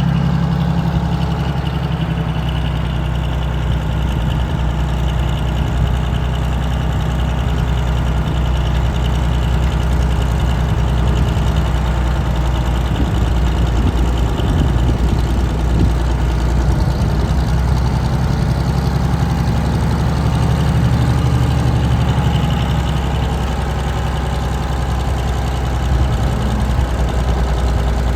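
Engine of a 1976 Drott 2510 30-ton truck crane running at a steady idle.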